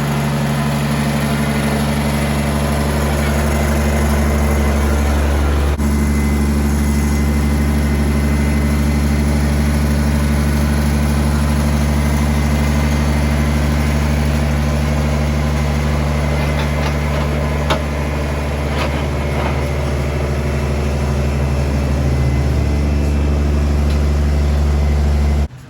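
Kubota GR2100 lawn tractor's 21 hp diesel engine running steadily at idle. There are a couple of light clicks partway through, and the engine sound cuts off abruptly near the end.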